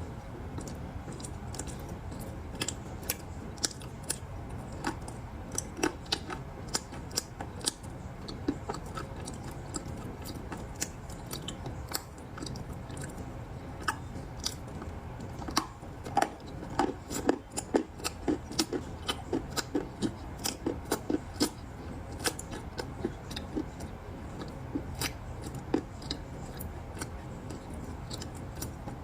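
Ice balls being bitten and chewed close to the microphone: irregular sharp cracks and crunches, coming fastest and loudest a little past halfway.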